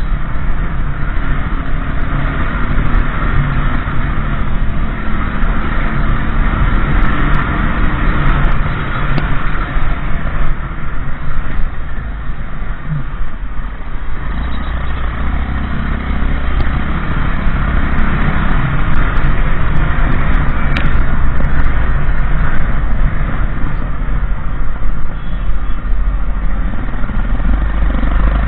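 Motorbike riding along a road: the engine runs steadily under heavy wind noise on the microphone, with a low rumble and occasional changes in engine pitch.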